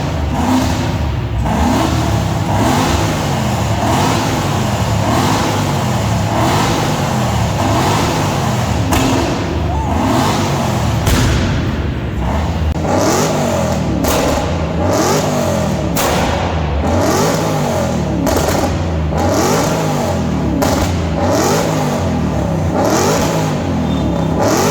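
Straight-piped V8 engine revved over and over, its pitch climbing and dropping about every second or so.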